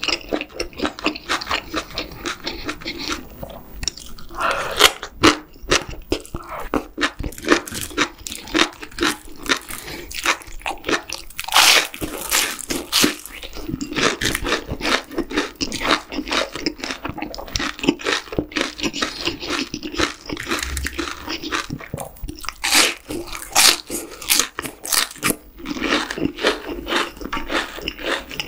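Close-miked eating: steady chewing with many sharp crunches of bites, the loudest from a deep-fried battered shrimp, between mouthfuls of spicy stir-fried webfoot octopus.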